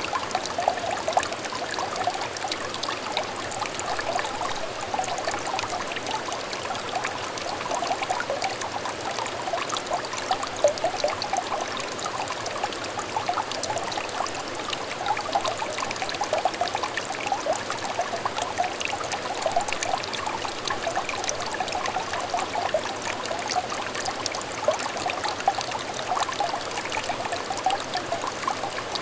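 Small shallow stream trickling and babbling over stones: a continuous, even burble of little splashes and gurgles, centred in the mid range.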